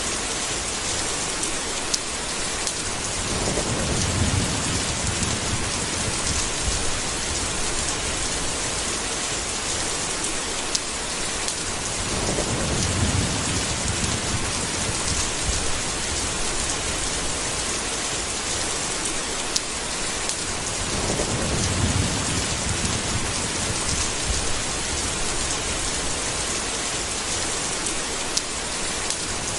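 Steady rain with a low rumble of thunder three times, each about four seconds long and roughly nine seconds apart.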